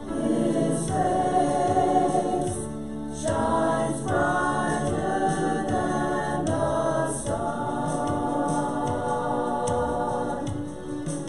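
Church choir singing a gospel song in sustained, held notes over instrumental accompaniment with a steady beat.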